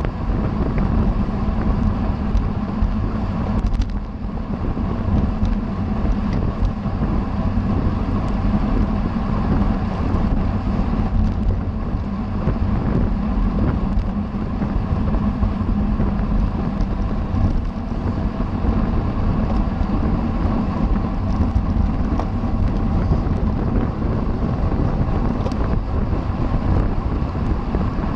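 Steady wind rush buffeting the microphone of a camera on a bicycle being ridden at racing speed.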